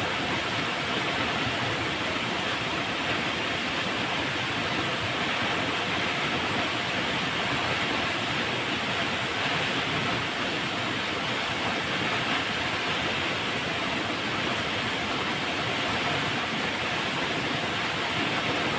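Flowing river: a steady, even rush of water with no breaks or separate splashes.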